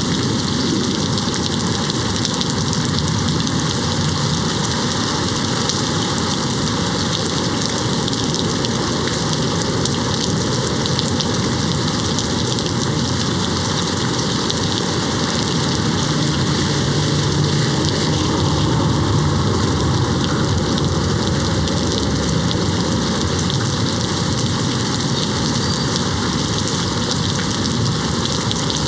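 Steady heavy rain hitting a window, an even hiss and patter throughout, with a low rumble swelling slightly a little past the middle.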